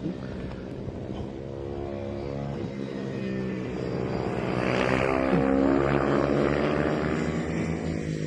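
Several 110cc mini motorcycles racing past under throttle, their overlapping engine notes shifting in pitch. The sound swells to its loudest about two-thirds of the way through as the pack goes by, then eases.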